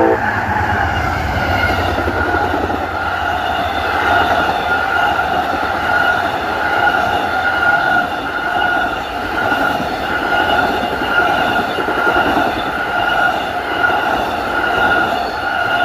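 Amtrak passenger train rolling past at speed: a steady rush of wheels on rail, with a high ringing squeal from the wheels held over it.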